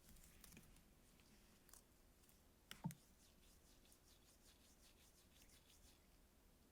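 Very faint handling of a squishy toy: soft scratchy rubbing and light crinkling, with one sharper tap about three seconds in.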